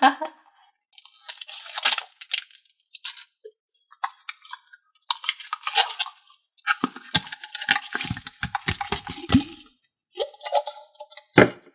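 Plastic jars being handled and opened, with irregular clicks, rattles and scrapes of the lids, some dull knocks, and one sharp knock about a second before the end.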